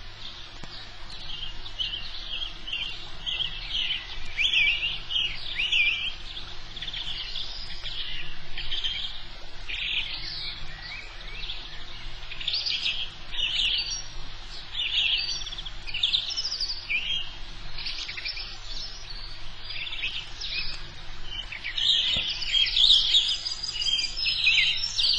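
Small birds chirping: a dense, continuous run of short high chirps, busiest near the end, over a faint steady low hum.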